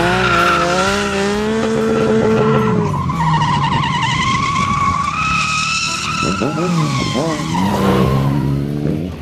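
Engines revving hard, with their pitch rising and falling, while tyres squeal in drifts. A high, wavering squeal runs through the middle stretch, and quick rev sweeps come near the end.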